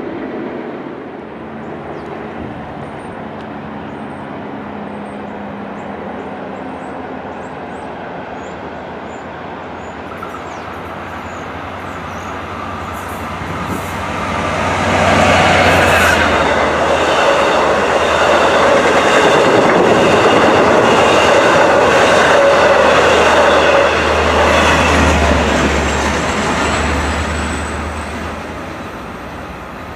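A Long Island Rail Road train passing close by: the sound builds from about twelve seconds in, stays loud through the middle with its wheels running over the rails and a steady low hum, and fades away near the end.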